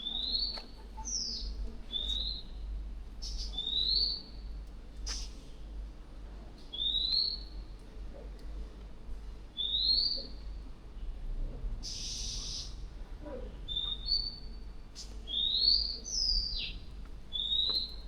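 A bird calling repeatedly: short rising whistled chirps every second or two, with a few falling notes and two brief harsh, hissing calls among them, over a low steady background rumble.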